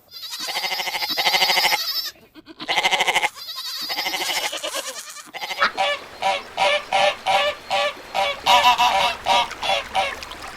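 Waterfowl calling. Three longer buzzy honks come first, then a run of short repeated honks at about one and a half a second.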